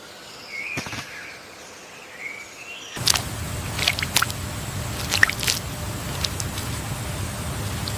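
Birds calling: a few short chirping calls over a quiet background. About three seconds in, the background turns abruptly to a louder steady low rumble, with quick sharp chirps scattered over it.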